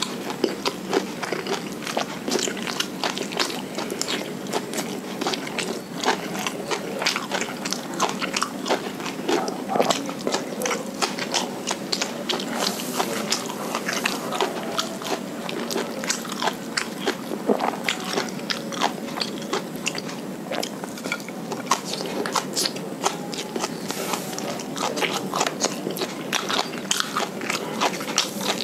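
A man chewing a mouthful of fried rice and raw papaya leaves close to the microphone: a continuous run of wet mouth clicks and smacks, several a second.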